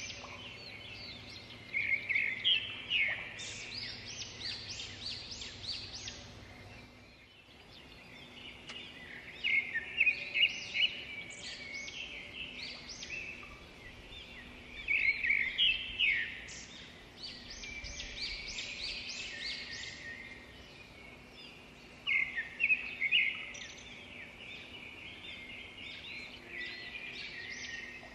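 Several songbirds singing and chirping together in repeated bursts of rapid, high trills, over a faint steady background hiss.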